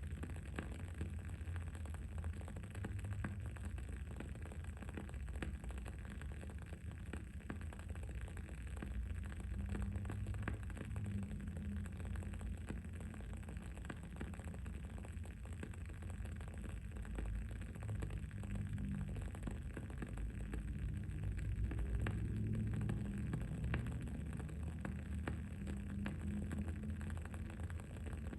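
Wood-wick candle crackling with many small, quick pops, over a steady low rumble of ambient background noise.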